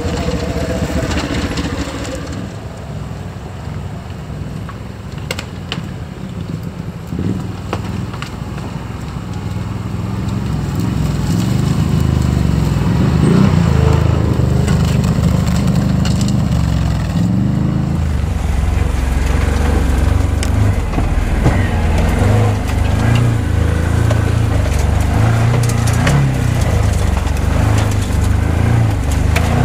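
Side-by-side UTV engine running under way on a rough trail, its pitch rising and falling with the throttle, with scattered knocks and rattles from the machine jolting over the ground. It eases off for several seconds, then grows louder from about ten seconds in.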